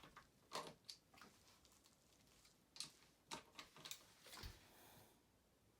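Faint, irregular metal clicks and clinks of a socket wrench being worked on a tight bolt on a dirt bike engine, with a dull knock about four and a half seconds in.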